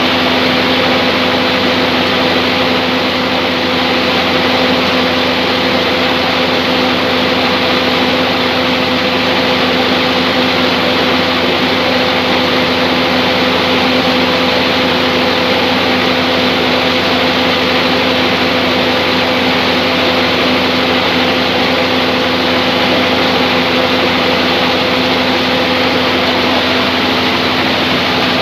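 Band sawmill machine running steadily: a loud, unchanging mechanical hum with a constant low tone under a broad whirring noise.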